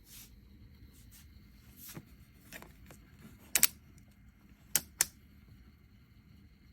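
A few sharp clicks and taps over a low background: a double click about halfway through is the loudest, followed by two more about a second later.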